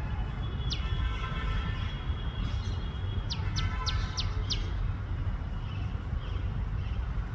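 Tailorbird giving loud, sharp down-slurred chirps: a single note about a second in, then a quick run of five about three seconds in. A steady low rumble of traffic runs underneath.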